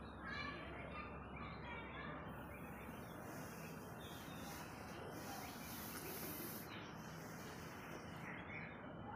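Faint scattered bird chirps over quiet outdoor background noise.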